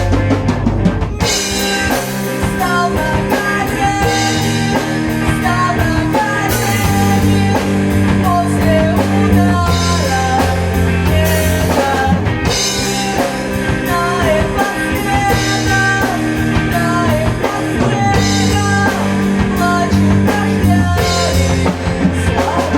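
Rock music played by a band: drum kit and guitars over a steady beat, with a wavering melodic lead line above low sustained notes that change every couple of seconds.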